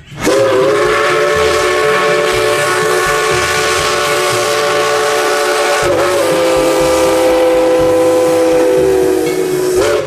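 Steam locomotive whistle blowing one long, chord-like blast over loud steam hiss, its pitch shifting slightly about six seconds in.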